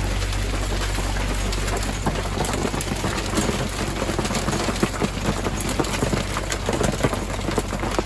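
Hailstones and rain pelting a sailboat: a dense hiss with many sharp ticks of stones striking, growing thicker about two seconds in, over a steady low hum.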